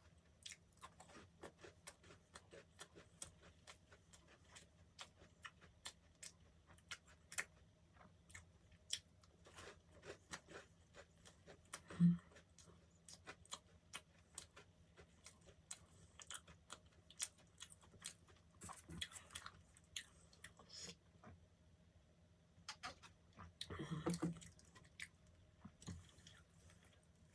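Close-miked chewing of soft bread, with many small sharp mouth clicks. A brief voice sound comes about halfway through, and a longer one about 24 seconds in.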